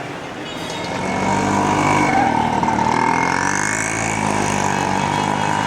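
A motor vehicle's engine running close by on the street, growing louder about a second in and holding steady.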